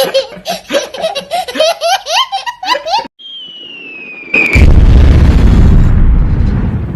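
Edited comedy sound effects: a baby giggling and laughing for about three seconds, then a whistle falling in pitch, then a loud explosion boom that rumbles and fades.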